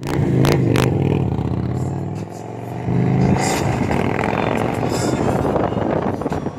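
Victory Cross Country motorcycle's V-twin engine running through new aftermarket exhaust pipes while riding on the highway. The engine sound drops briefly a little after two seconds in, then picks up again.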